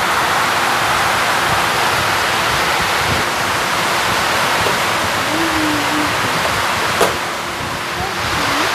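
Heavy rain falling hard, a loud, steady hiss. A single sharp click comes about seven seconds in.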